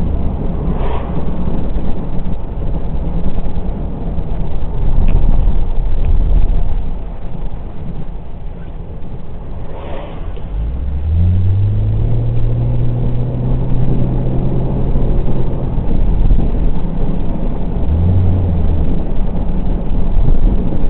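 Car engine accelerating: about ten seconds in its note climbs and then holds steady for several seconds, and a shorter burst of engine note comes near the end, over a constant low rumble.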